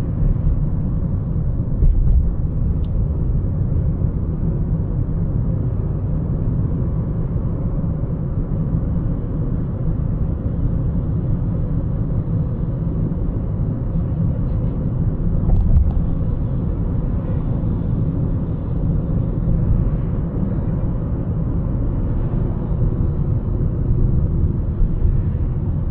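Steady low rumble of a car driving, road and engine noise, with small swells in level now and then.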